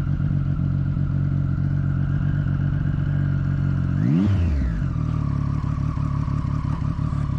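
Triumph Street Triple's three-cylinder engine running steadily under the rider, with a quick rise and fall in revs about four seconds in before it settles back to a steady note.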